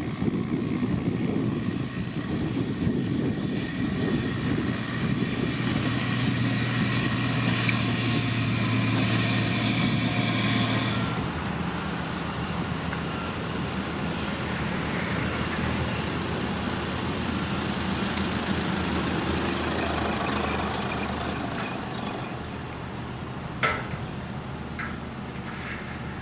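Heavy diesel road-building machinery running steadily. Its engine note drops and gets quieter about halfway through. A brief high squeal comes near the end.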